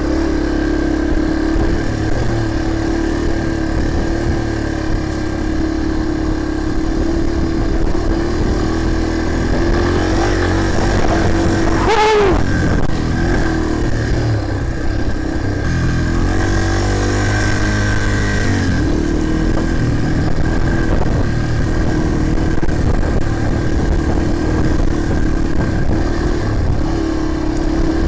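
Dirt bike engine running steadily while riding a trail, with a quick pitch sweep about twelve seconds in.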